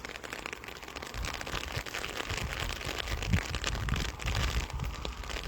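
Light rain pattering as a dense run of fine ticks, with an irregular low rumble on the microphone that swells in the middle.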